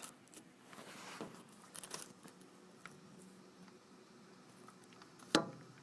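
Faint steady patter of rain in a thunderstorm, heard from indoors, with one sharp click a little after five seconds in.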